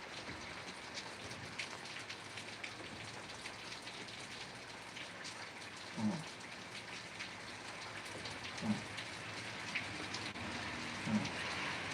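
Steady rain falling, with many small drops tapping on a surface. Three brief, louder low sounds with a slightly falling pitch come about two and a half seconds apart in the second half.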